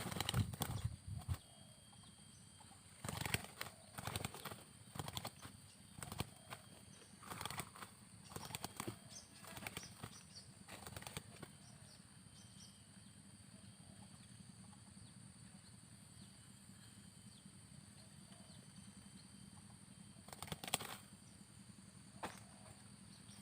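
Bird wings flapping in short, irregular flurries, several in the first half and one more near the end, over a faint steady high-pitched background.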